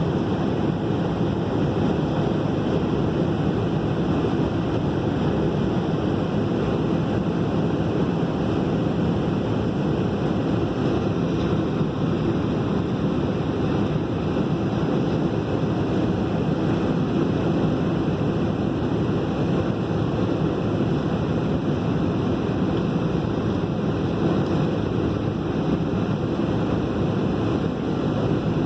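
Steady, even cabin noise inside an airliner before take-off, with its jet engines running at low power.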